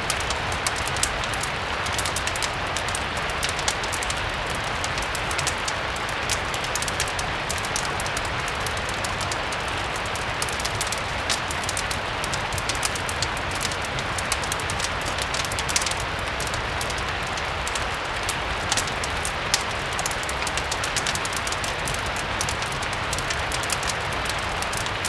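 Steady rain mixed with a crackling wood fire: an even rain hiss with frequent small sharp pops scattered over it, and a low steady rumble underneath.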